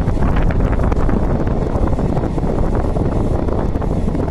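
Passenger train running at speed: a steady rumble of wheels on the track, with some clattering in the first second and wind buffeting the microphone.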